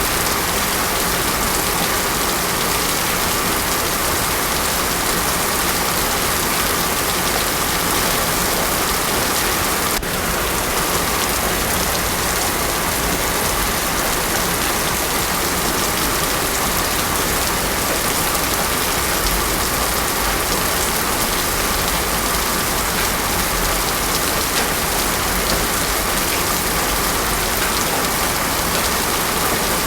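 Heavy, steady rain falling on a paved road, without thunder.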